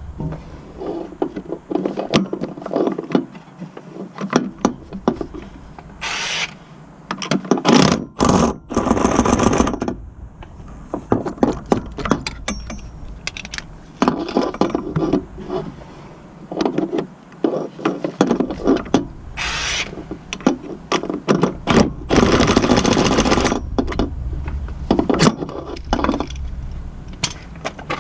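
Hand work on a car: repeated clanks, knocks and scrapes of tools and parts, with two longer rasping stretches, one about a third of the way in and one near the end.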